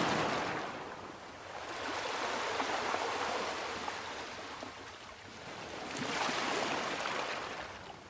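Sea waves washing up on a beach, surging and ebbing in slow swells. One wash fades at the start, another builds about a second and a half in, and a fresh wave breaks about six seconds in.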